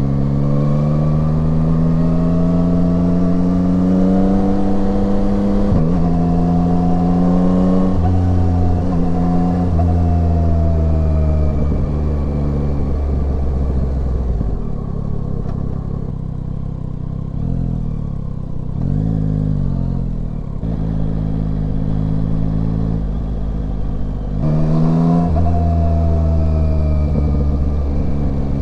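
Yamaha Tracer 9's three-cylinder engine pulling hard, its pitch rising and stepping down at upshifts about six and eight seconds in. It then winds down and runs low and quieter for about ten seconds, before accelerating again near the end.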